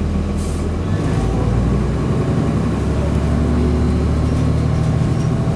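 Cummins ISC straight-six diesel of a 2002 Blue Bird CS transit bus running, heard on board, its note changing about a second in and again around four seconds in. A short hiss comes near the start.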